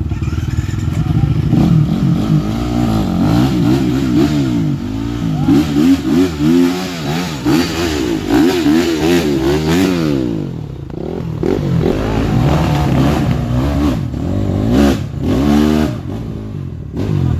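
Off-road motorcycle engines revving hard, the pitch swinging up and down over and over as the throttle is worked, typical of dirt bikes pushing through mud.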